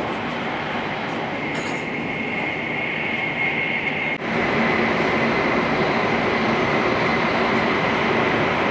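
Hokuriku Shinkansen train running at speed, heard inside the passenger cabin as a steady rumble. About four seconds in the train enters a tunnel and the cabin noise suddenly gets louder, with a steady whine on top.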